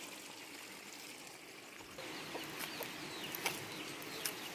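Faint outdoor ambience with a few short bird calls starting about two seconds in.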